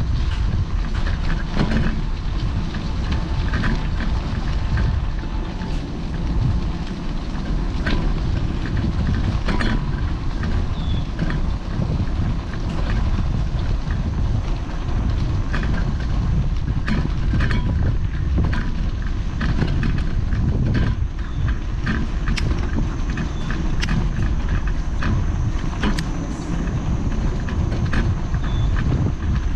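Wind noise on the microphone and road rumble from a bike in motion, a steady low rumble with scattered small clicks and rattles.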